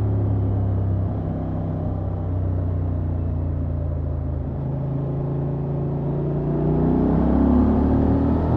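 Honda XL750 Transalp's 755 cc parallel-twin engine through its stock exhaust, running at steady revs under way. About two seconds before the end it revs up and accelerates, rising in pitch and getting louder.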